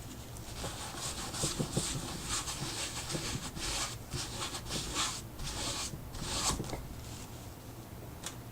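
Rubbing on paper: quick back-and-forth scrubbing strokes, about two a second, working gesso back off the surface like sandpaper to lighten parts of the background. The strokes stop about seven seconds in.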